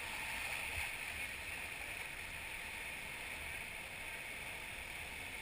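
Steady rushing of whitewater river current around a raft, an even noise with no breaks.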